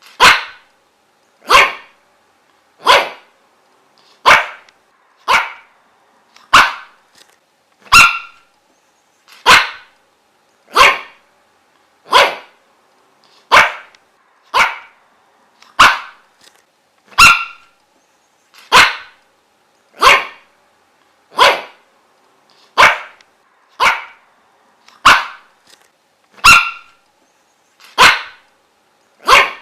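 A dog barking single, sharp barks at a steady, even pace, about one every 1.3 seconds.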